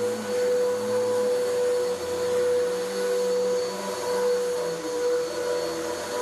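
Bissell vacuum cleaner running steadily on carpet, with a constant motor whine and airflow hiss.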